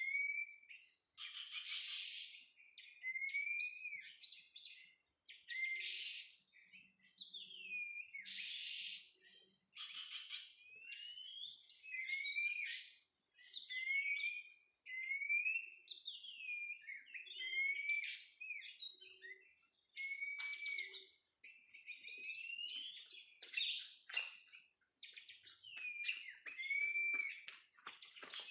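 Oriental magpie-robin song: repeated rising whistles alternating with harsh, scratchy chatter notes, over a steady thin high-pitched whine.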